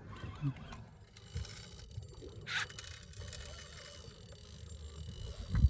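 Steady low rumble of a boat on the water, with a few light knocks, a brief hiss about two and a half seconds in, and a louder thump near the end.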